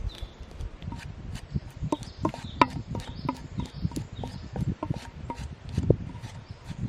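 Irregular wooden knocking and clattering with some rubbing: hard objects being handled or set down, two to four knocks a second, uneven in strength.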